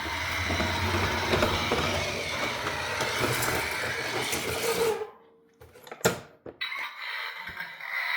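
Battery-powered Dickie Toys Wheelie Raiders monster truck's electric motor and plastic gearbox whirring, cutting off suddenly about five seconds in, followed by a sharp click a second later.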